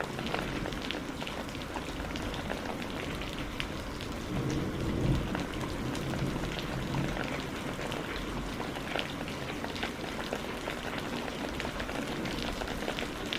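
Steady rain falling, with many individual drops ticking throughout. A low rumble swells about four and a half seconds in and fades by about seven seconds.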